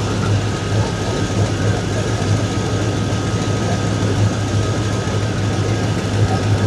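2002 Chevrolet Silverado's V8 engine idling steadily with an exhaust leak, which the owner puts down to a V-band clamp not seated all the way around.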